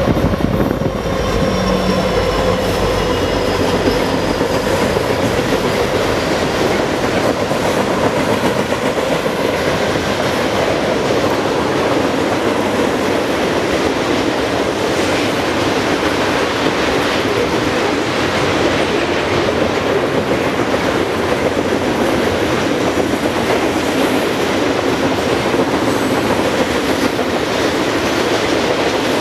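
Long freight train of flatcars loaded with concrete railroad ties rolling steadily past, steel wheels running on the rails with scattered clicks. In the first couple of seconds the hum of a passing diesel locomotive fades away as it moves off.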